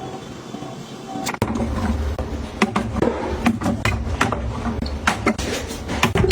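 Things being handled and set down: after a quieter first second, a quick run of sharp taps and clicks over a low rumble.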